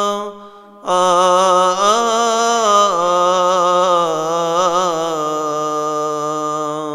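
A solo male voice chants a Coptic Orthodox hymn, drawing out a long melismatic phrase on a single syllable. He takes a short breath about a second in, and the note then slides up and down with ornamental wavering until the phrase ends near the close.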